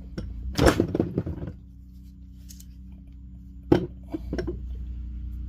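Heavy steel differential parts clanking on a workbench as the ring gear and carrier assembly is flipped over: a quick cluster of metal knocks and rattles about a second in, then one sharp knock near the end, over a steady low hum.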